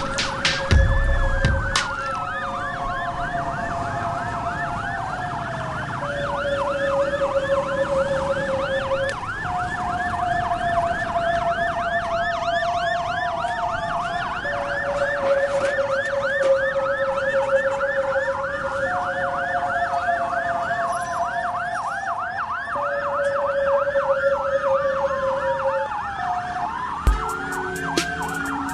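Several emergency-vehicle sirens sounding at once: a fast yelp, slower rising-and-falling wails, and a two-tone siren alternating between a low and a higher note every few seconds. A few short knocks come near the end.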